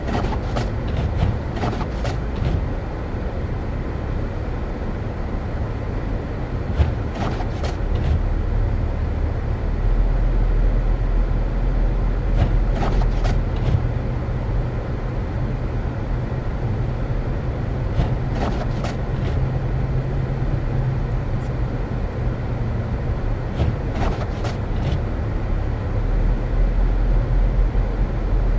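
Car driving on a snow-covered road: a steady low rumble of engine and tyres that swells about ten seconds in and again near the end, with short clicks or knocks every five or six seconds.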